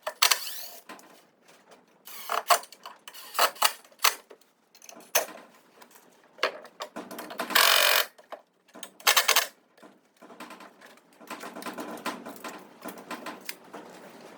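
Workshop handling sounds: irregular knocks, clatters and short scrapes of wood and tools being worked and moved, some lasting about half a second, with quiet gaps between.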